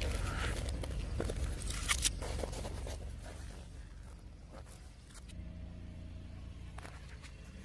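Car engine running low and steady, with a few faint crackles in the first couple of seconds; a faint low hum comes in about five seconds in.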